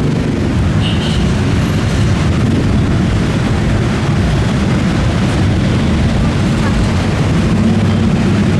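Busy city street noise: a steady, loud low rumble of traffic.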